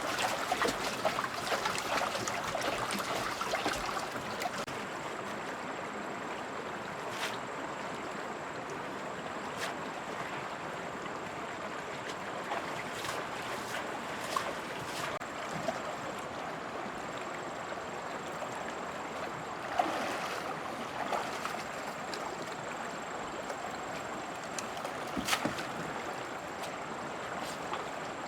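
Running, trickling water as a steady noise, heavier in the first few seconds, with a few sharp clicks and knocks scattered through it.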